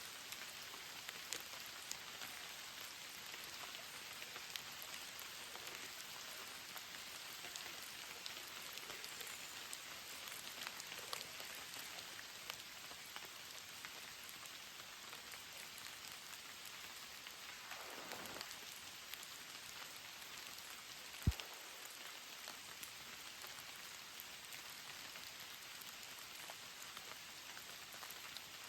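Steady rain falling, with many small drop impacts throughout. A single sharp knock about three-quarters of the way through is the loudest moment.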